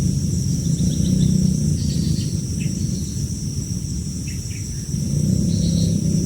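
Steady high-pitched insect drone, like crickets, with scattered faint short chirps, over a loud steady low rumble.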